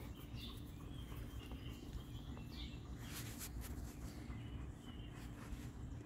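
Birds chirping now and then, with short high chirps, over steady outdoor background noise.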